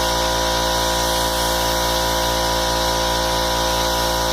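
Small air compressor running steadily with an even motor whine, pumping the tractor airbag's air supply up toward 55 psi.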